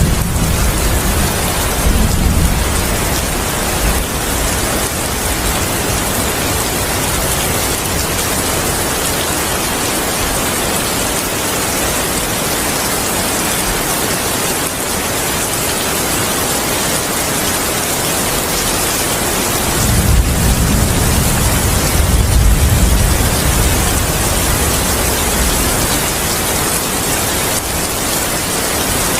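Steady, heavy rain hissing, with low rolls of thunder. One rumble dies away in the first few seconds, and another rolls in about two-thirds of the way through and lasts several seconds.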